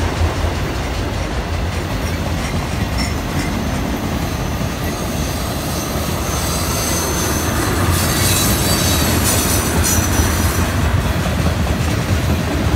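Freight train cars (autoracks, then tank cars) rolling past, with a steady rumble of steel wheels on the rail. A high-pitched wheel squeal rides over it from about six to eleven seconds in.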